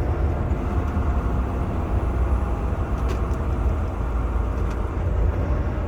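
Semi truck driving, heard from inside the cab: a steady low engine and road rumble.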